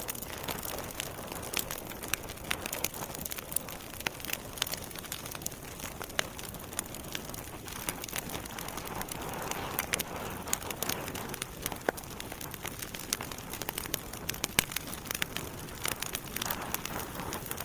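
Campfire burning: wood crackling with many sharp, irregular pops and snaps over a steady hiss of the flames.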